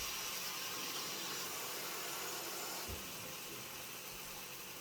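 Water hissing and steaming in a hot pan of rice browned in oil, a steady sizzle that slowly dies down, with a soft knock about three seconds in.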